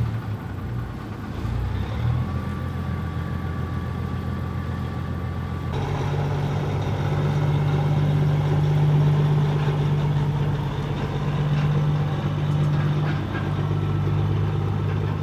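A large engine running steadily. The sound changes abruptly about six seconds in, as if two different takes are joined.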